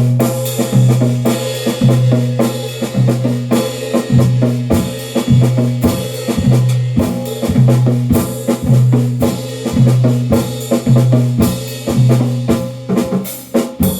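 Drum kit played in a dense, busy pattern of strikes, with a low booming note repeating about once a second underneath.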